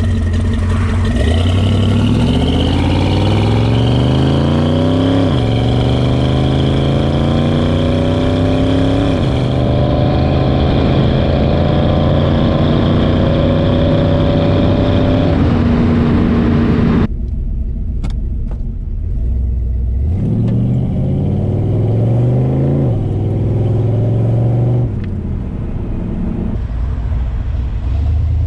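1979 Ford Mustang's V8 pulling hard through the gears: the engine note climbs and drops at an upshift about 5 seconds in, climbs again to a second shift about 9 seconds in, then holds steady. About 17 seconds in the throttle is lifted and the sound drops sharply. The engine then picks up again, climbing to another shift near 23 seconds before settling into a cruise.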